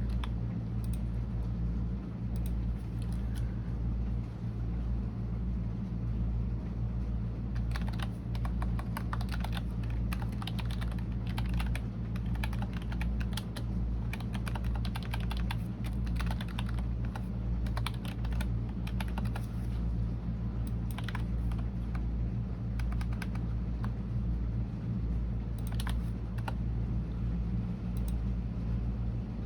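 Typing on a computer keyboard: runs of quick keystrokes in bursts, busiest from about a quarter of the way in to two-thirds through, with shorter flurries after that. A steady low hum sits underneath throughout.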